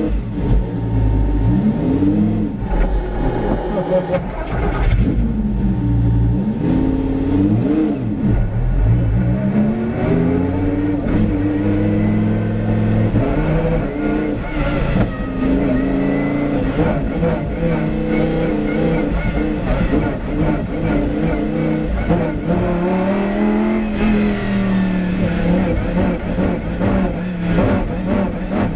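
Lamborghini Huracán GT race car's 5.2-litre V10 engine running hard, its pitch rising and dropping again and again as it accelerates and shifts or lifts through corners.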